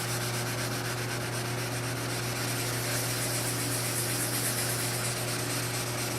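1500-grit wet sandpaper rubbed lightly over car paint, a steady sanding hiss taking down a small scratch in the clear coat. A steady low hum runs underneath.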